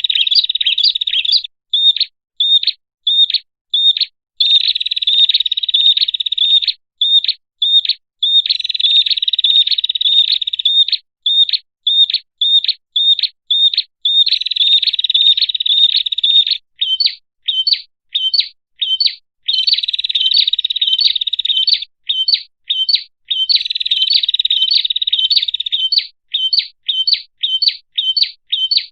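Prenjak (prinia) song played as a lure call: runs of separate sharp chirps, two to three a second, alternate with rapid chattering trills of about two seconds each, several times over.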